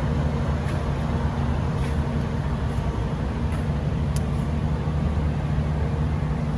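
Steady rumble of road traffic with a low, even engine hum.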